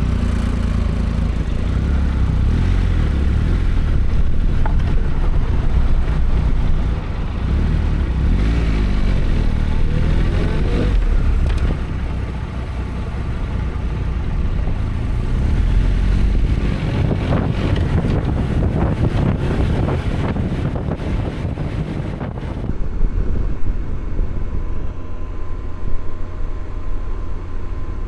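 Motorcycle engine running under heavy wind rumble while riding, the engine note rising as the bike accelerates about a third of the way in and again past halfway. Near the end the rushing noise drops away as the bike slows.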